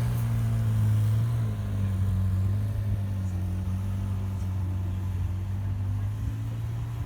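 McLaren 720S's twin-turbo V8 running at steady low revs in a gentle lap, its even hum slowly fading.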